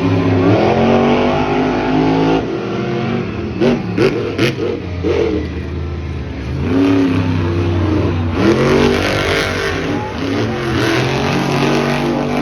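Monster truck engines revving hard, the pitch sweeping up and dropping back again several times. A few sharp cracks come about four seconds in.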